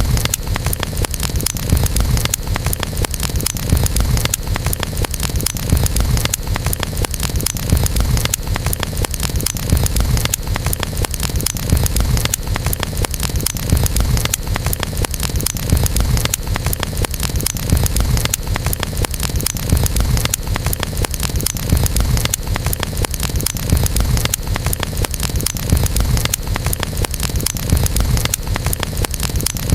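Wood campfire burning: dense, constant crackling and popping over a steady low rumble of the flames.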